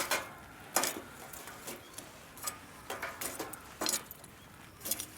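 Camp cookware and utensils being handled: short, light clinks and clicks at uneven spacing, roughly one a second.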